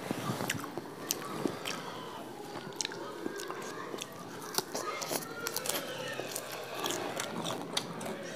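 Close-up eating sounds: chewing instant noodles with many small wet mouth clicks, and crunchy bites into a raw lettuce leaf around the middle.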